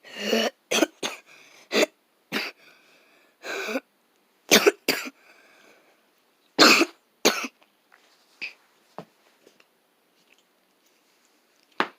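A run of short, sharp coughs, about a dozen in irregular bunches, fading out after about eight seconds, with one more cough near the end.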